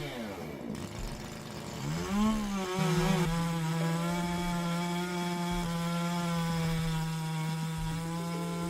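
Makita two-stroke chainsaw revving up about two seconds in, then held at a steady high speed as it cuts through wood.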